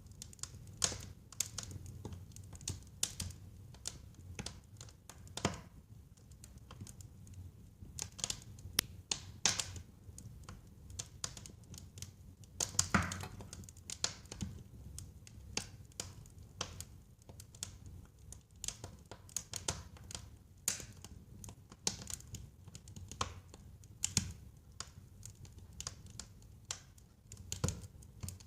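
Wood fire crackling in a fireplace: irregular sharp pops and snaps, several a second at times, over a low steady rumble of the flames, with a louder pop about thirteen seconds in.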